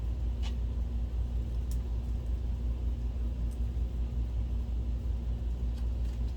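Steady low hum of the workbench surroundings, with a few faint light clicks as a machine screw is driven into the projector's plastic cover.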